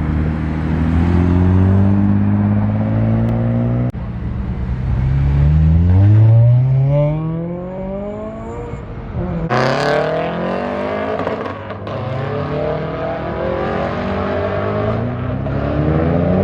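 Modified cars accelerating away one after another, each engine's note climbing steadily as it revs up. A fresh engine starts its climb about four seconds in, and another near ten seconds in.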